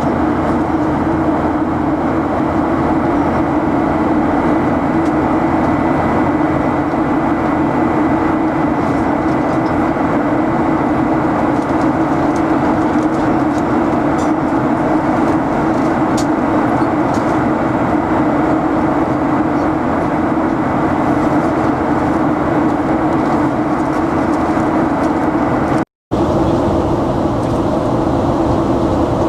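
Steady airliner cabin noise from the jet engines and rushing air, a constant loud hum with a faint high whine. It cuts out for an instant near the end.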